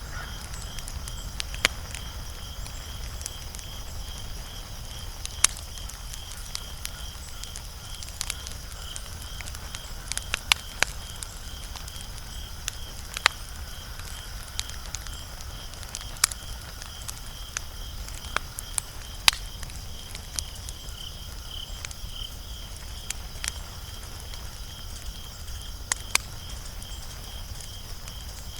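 Wood fire crackling: irregular sharp snaps and pops, some much louder than the rest, over a low steady rumble. A steady, pulsing high-pitched chirping runs under it.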